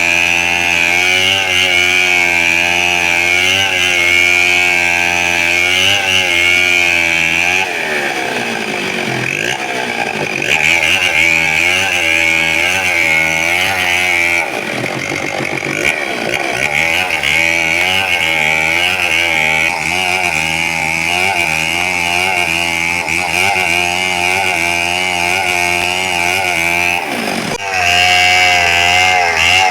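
Chainsaw running under load while cutting wood, its engine note wavering steadily. The pitch sags and recovers twice in the middle as the chain bites deeper, and a brief dip near the end is followed by a louder run.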